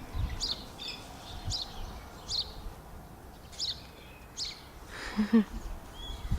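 Galahs giving short, sharp, high chirping calls about once a second over steady outdoor background noise, with one short, louder low sound about five seconds in.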